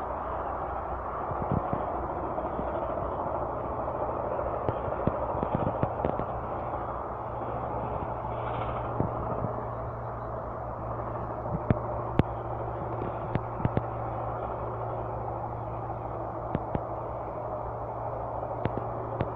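Campfire burning, with irregular sharp pops and crackles over a steady rushing noise.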